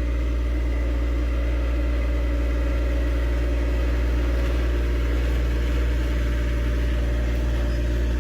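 John Deere tractor engine running steadily at a constant speed.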